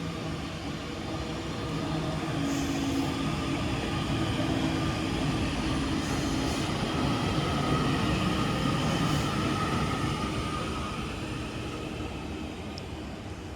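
TransPennine Express Class 397 electric multiple unit running through the platform, with steady motor tones over its rolling noise. It grows louder to a peak about eight seconds in, then fades away.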